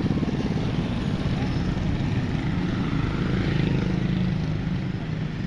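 Motorcycle engine running steadily with a fast, even pulsing hum.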